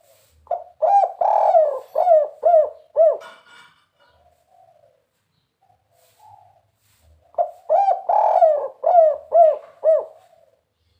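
Spotted dove (tekukur) cooing its 'kuk 3' song twice, each phrase a run of short, rolling coos lasting about three seconds. Softer single coos come between the two phrases.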